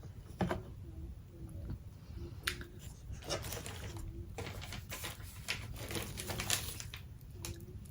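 Scattered light clicks, taps and rustling as unfinished wooden craft pieces and their packaging are handled and set down, with a few faint short low notes in the background.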